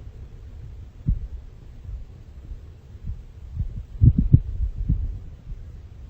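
Strong wind buffeting the microphone in low, uneven rumbling gusts, the hardest gusts about four seconds in.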